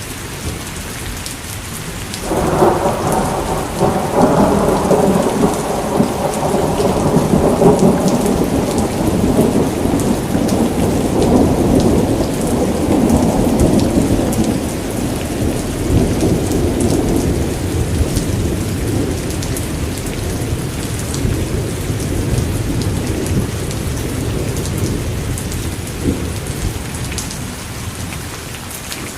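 Steady rain, with a roll of thunder that breaks suddenly about two seconds in and rumbles away slowly over some fifteen seconds.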